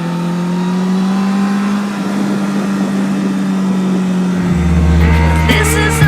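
Honda CBR1000RR's inline-four engine running under way, its pitch rising slightly over the first two seconds and then holding steady. Music with a deep bass line comes in after about four seconds.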